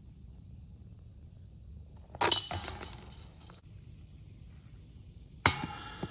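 A flying disc hits the chains of a disc golf basket, a sharp metallic jangle of chains ringing for about a second and a half. A second, shorter metallic clink comes near the end.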